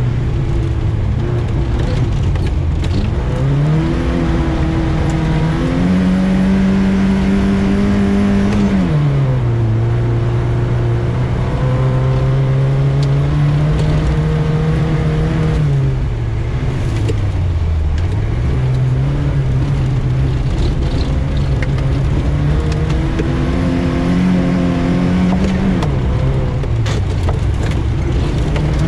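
Lada VAZ 2105 rally car's engine under hard driving, its pitch climbing with the revs and then dropping sharply several times as it shifts or lifts off. A constant coarse rumble runs underneath.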